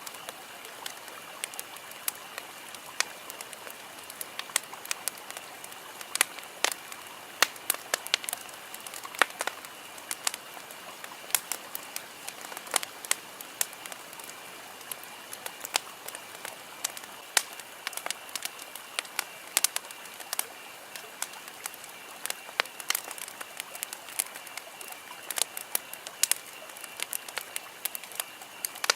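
Wood campfire crackling, with many irregular sharp pops and snaps of varying loudness over a soft steady hiss. A faint steady high-pitched hum runs underneath.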